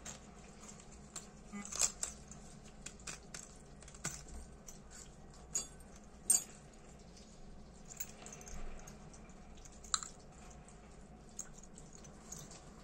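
Small metal tools and lighter parts clicking and tapping irregularly as they are handled. The sharpest clicks come about two, six and ten seconds in.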